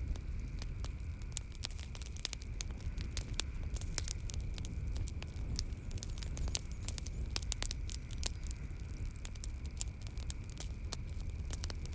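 Wood fire crackling in a fireplace: dense, irregular pops and snaps over a low rumble of the flames, with a faint steady high tone in the background.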